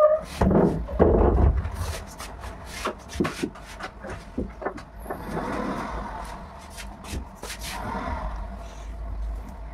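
Maruti Suzuki WagonR hatchback's engine running at low speed as the car turns and pulls away, with scattered clicks and knocks, loudest in the first second or two.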